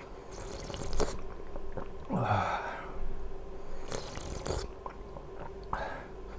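A person chewing and eating food close to the microphone, heard as several separate short bursts of mouth noise.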